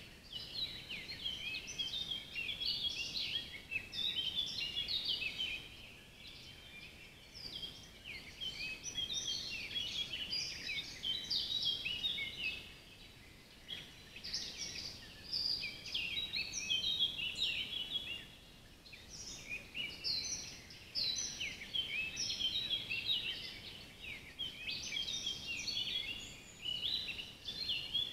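Birdsong: dense runs of rapid, varied high chirps and trills, sung in phrases several seconds long with brief pauses between them.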